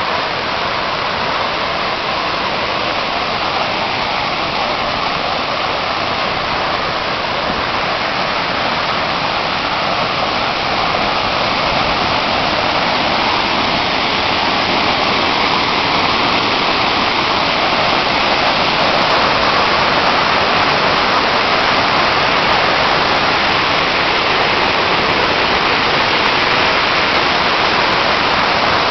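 Salto Corumbá, a 68 m high waterfall, pouring water with a steady, even rush that grows slightly louder partway through.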